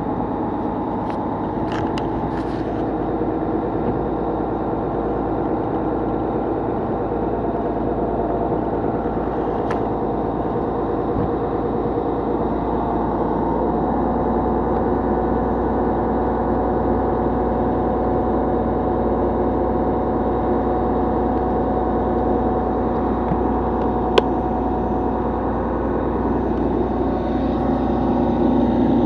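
Fishing boat's engine running steadily underway, a constant drone with a few short sharp clicks, one at the start and one near the end.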